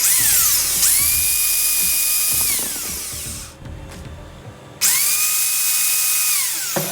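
Bosch GWS 750-100 angle grinder switched on twice, each time spinning up quickly to a steady high whine, running for about two seconds, then coasting down after release. Its new armature is fitted.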